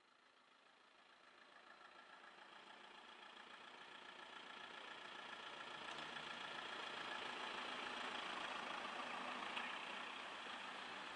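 Small van's engine running as it rolls up and passes by, growing steadily louder over the first several seconds and then holding level. There is a single short tick near the end.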